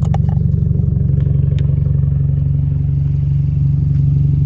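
Car engine idling with a steady low hum, with a few light clicks in the first second or two.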